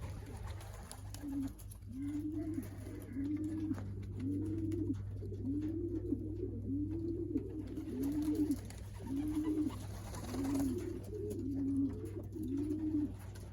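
Racing pigeons cooing: a steady run of short, low, arched coos about once a second, over a steady low hum.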